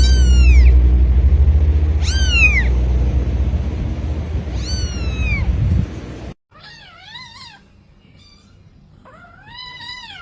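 Kitten mewing: three high-pitched mews, each falling in pitch, about two seconds apart over a loud low rumble. After a sudden cut, a cat meows twice, more quietly, each meow rising and then falling.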